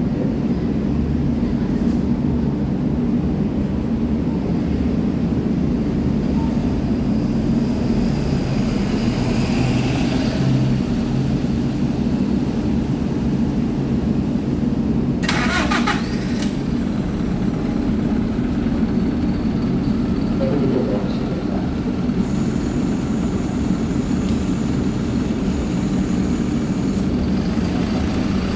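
Isuzu Erga city bus's four-cylinder turbo-diesel engine idling steadily after start-up. There is a short sharp hiss about fifteen seconds in.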